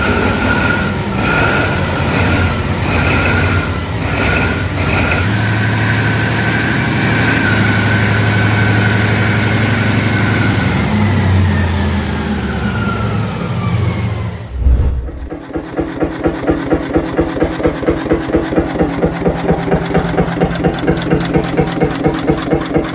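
Caterpillar 3512 marine V12 diesel running hard, with a high whine that falls in pitch over its last few seconds. Then, after a sudden break about two-thirds of the way in, a Beijers single-cylinder hot bulb engine running with a slow, even beat of about four a second.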